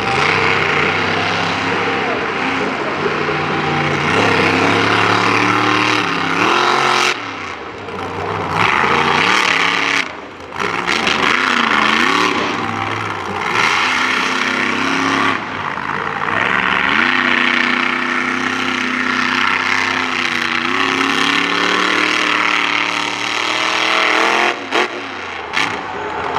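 Monster truck engine revving hard and unevenly, pitch climbing and falling as the throttle is worked, with the power cut briefly three times.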